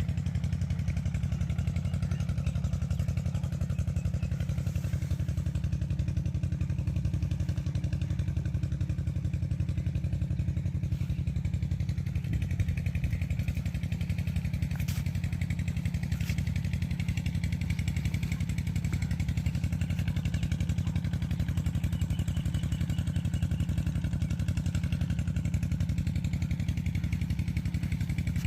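Diesel engine of a tubewell pump running steadily at a constant speed, with a low, even chugging beat.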